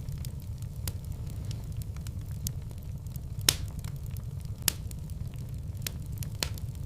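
Wood fire burning in a fireplace: a steady low rumble of flames with irregular sharp crackles and pops, two louder pops about three and a half and four and a half seconds in.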